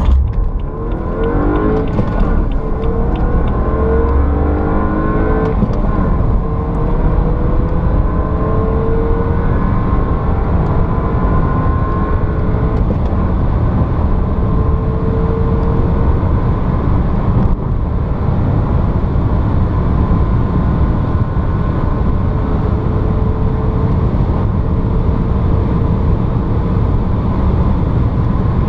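BMW 328i F30's turbocharged 2.0-litre four-cylinder under full-throttle acceleration, its pitch climbing through each gear with several upshifts, each marked by a brief dip and drop in pitch. The climbs lengthen as the gears get taller, over steady road and wind noise.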